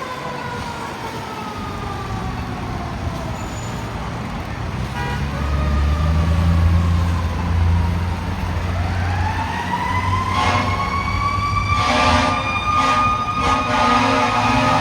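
Fire engine siren wailing: it winds down slowly, then rises again about eight seconds in and holds high. The truck's engine rumbles louder from about five seconds in. Several air horn blasts come near the end.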